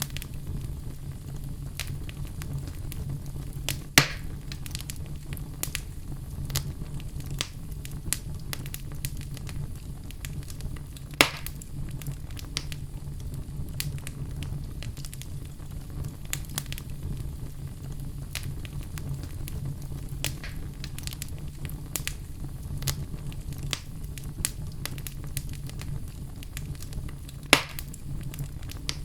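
Wood fire burning with a steady low rumble and frequent small crackles, and three louder pops of the logs, about 4, 11 and 27 seconds in.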